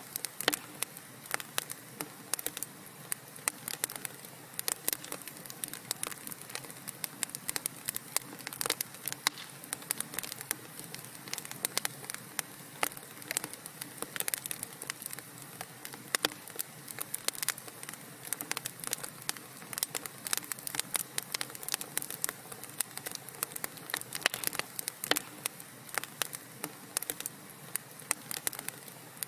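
Wood fire crackling in a fireplace: many small irregular pops and snaps over a steady soft hiss of burning.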